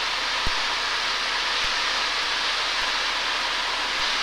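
Steady in-flight cockpit noise of a Cessna 172RG, engine and airflow blended into an even hiss.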